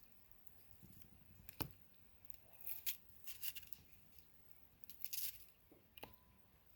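Scattered short, crisp scraping and crinkling sounds of hands working on food with seasonings, a second or so apart. A brief faint tone sounds about six seconds in.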